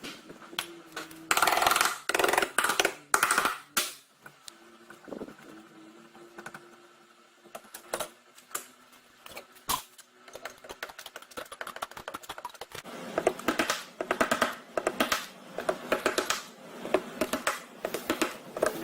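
Irregular tapping and clicking, sparse at first and coming thick and fast in the last few seconds, over a faint steady hum.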